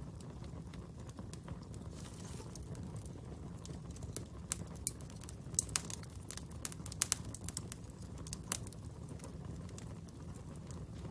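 Fire crackling: scattered sharp pops and snaps over a steady low rumble, with a busier run of louder pops in the middle.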